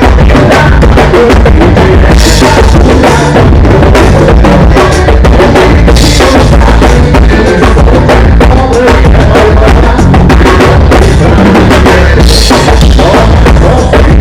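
Live band playing loudly during a soundcheck, the drum kit to the fore with kick and snare strokes and three cymbal crashes over a bass line and other instruments.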